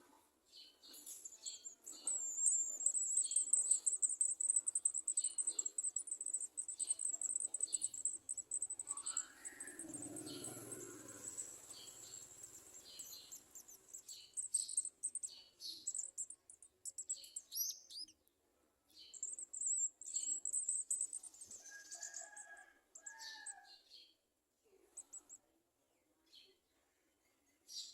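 Garden sunbirds (olive-backed sunbirds) calling: a busy run of short, very high-pitched chirps and thin, high trills that come and go, with a pair of lower notes a little past the middle and fewer calls near the end.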